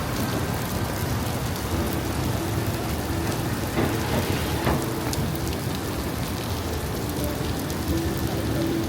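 Steady rain falling, with a couple of sharper drop or splash impacts around the middle.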